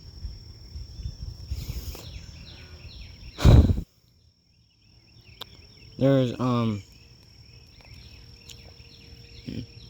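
A steady high-pitched insect drone over low rumbling noise. About three and a half seconds in there is a loud bump, followed by a moment of near silence, and around six seconds in there are two short voiced sounds.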